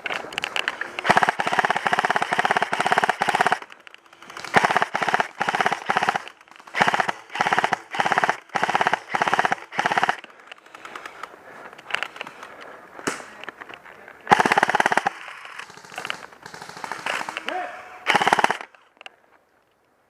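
Airsoft guns firing on full auto in repeated bursts. A long burst of about two and a half seconds comes first, then a string of short bursts each under a second, and two more bursts later.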